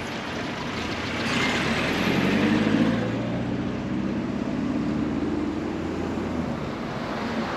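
A car's engine and tyres as it drives past close by, swelling to its loudest two to three seconds in and then easing off, over steady street noise.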